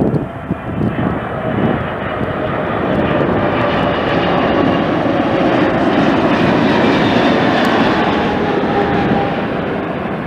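Jet airliner passing close by. Its engine noise swells over the first couple of seconds, holds loud, then begins to ease near the end, with a faint whine slowly falling in pitch.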